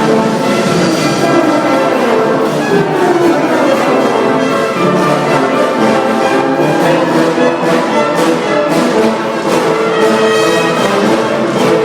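An orchestra with brass and strings playing an arranged song, full and sustained throughout.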